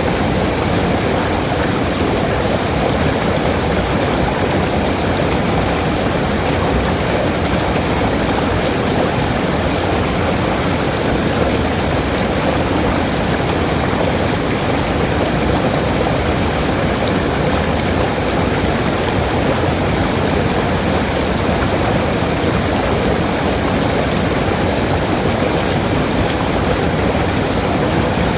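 Waterfall: water falling and rushing in a loud, steady roar of noise that does not change.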